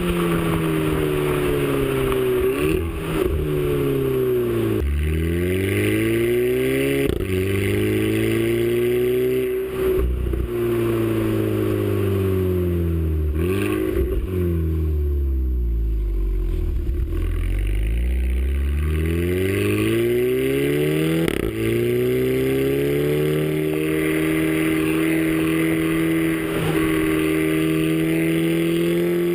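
Audi A3 TSI's turbocharged four-cylinder engine, upgraded with an APR K04 turbo, being driven. Its note falls with several sudden steps as the gears change, is lowest about halfway through, then climbs again with one more gear change.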